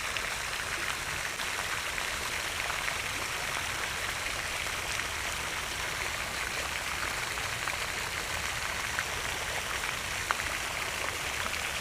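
Steady splashing of a pond fountain's spray falling back onto the water, with one faint click about ten seconds in.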